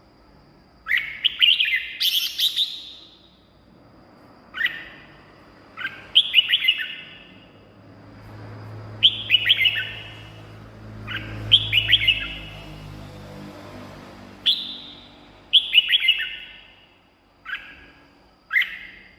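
Red-whiskered bulbul singing: about nine short, loud, warbling phrases with brief pauses between them.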